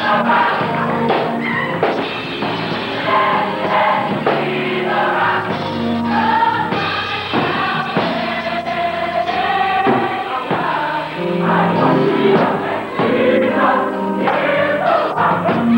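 A gospel choir singing, many voices together, over steady low notes.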